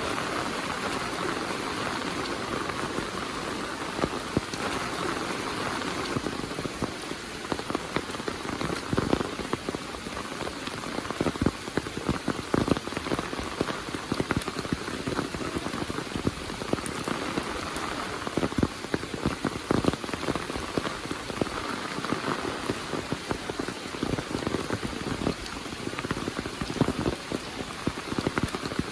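Heavy monsoon rain: a steady hiss with dense, irregular drops and splats striking surfaces close by.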